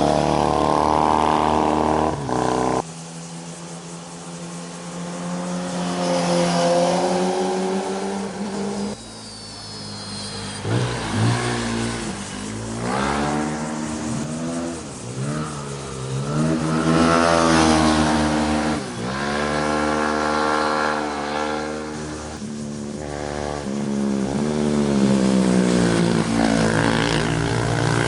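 Sport motorcycles passing one after another, their engines revving with the pitch sweeping up and falling away as each goes by. The sound changes abruptly a few times where one pass gives way to the next.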